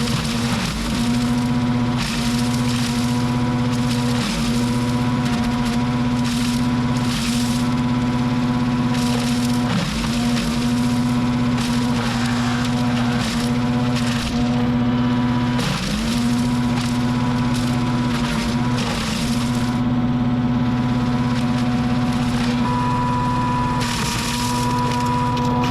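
A small petrol engine running at a steady high speed, its pitch sagging briefly and recovering several times as if it were loaded, with irregular crackling and cracking over it.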